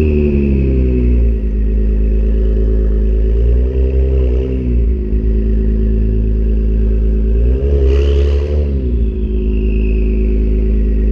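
Acura NSX twin-turbo V6 through a PRIDE valved aftermarket exhaust, idling after the revs fall back at the start, with two short throttle blips about four and eight seconds in. A high whine fades early and returns near the end.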